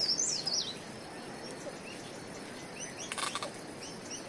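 A songbird's quick, high warbling chirps in the first half-second, then quiet outdoor ambience with a brief faint rustle about three seconds in.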